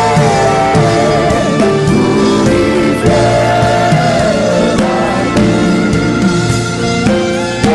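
Gospel worship music: a sung chant with a wavering melody over loud instrumental backing with percussion.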